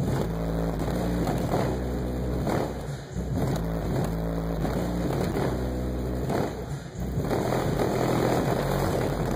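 Bass-heavy music played loud through a car audio system of four CT Sounds EXO 15-inch subwoofers, its deep bass notes stepping to a new pitch every half second to a second.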